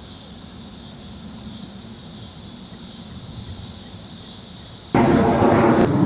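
Steady outdoor background with a continuous high hiss. About five seconds in, a much louder, rough rumbling noise cuts in abruptly and keeps going.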